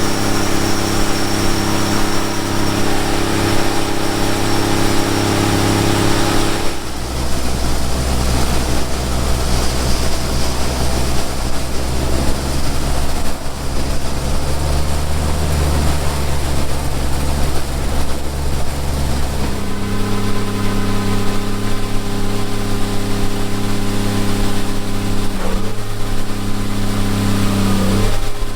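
Farm machinery engine running steadily during soybean harvest, a constant drone. Its note changes abruptly about seven seconds in and again about twenty seconds in.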